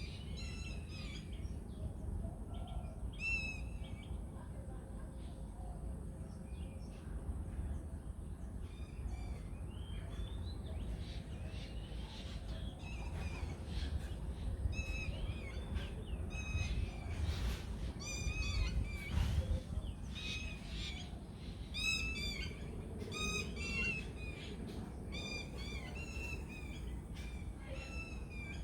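Songbirds chirping and singing in short repeated phrases, busiest in the second half, over a steady low outdoor rumble.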